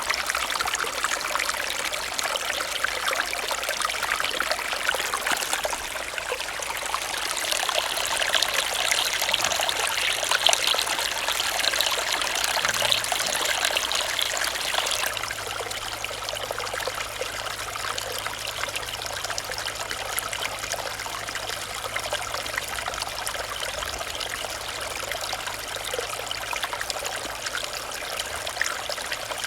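Running stream flowing steadily. The water sound grows a little louder and brighter after about seven seconds and eases back about halfway through.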